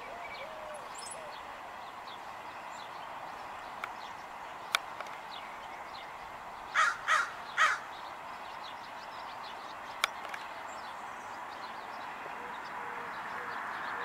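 Three short, harsh bird calls in quick succession about halfway through, with fainter bird chirps in the background. A single sharp click sounds a little before the calls and another a little after.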